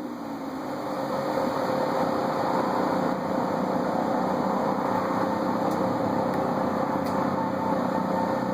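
Chrysler 200 with an aftermarket Corsa exhaust idling steadily, just after a rev has died away.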